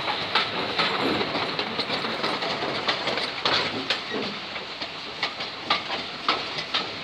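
Passenger carriages of a steam-hauled heritage train running along the track, wheels clicking irregularly over rail joints under a steady rushing noise, heard from an open carriage window.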